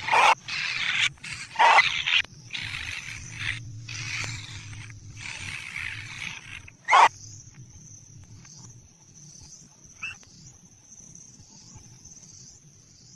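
Kingfisher nestlings giving harsh, hissing begging calls in a run of bursts, ending with a short loud one about seven seconds in, after which it goes quieter. A steady high-pitched whine wavers on underneath throughout.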